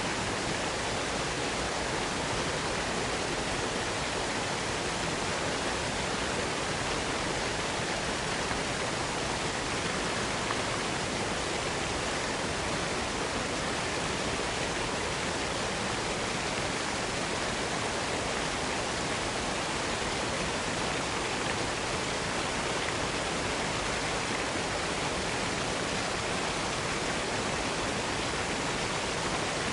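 Waterfall in a small wooded box canyon: a steady, even rush of falling water with no breaks or changes.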